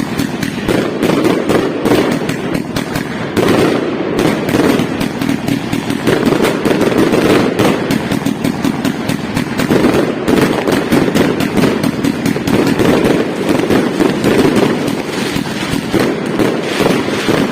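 Fireworks going off in a dense, rapid, unbroken barrage of bangs and crackles.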